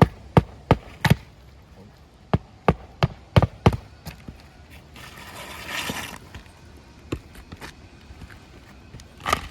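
Hammer driving roofing nails into an asphalt shingle: two quick runs of sharp strikes in the first four seconds, then a brief scraping rustle, and one more strike near the end.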